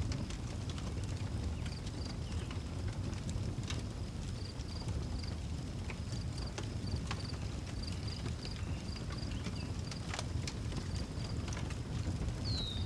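Wood fire crackling with scattered sharp pops over a low, steady rumble, while crickets chirp in a steady high pulsing trill. A short falling call sounds near the end.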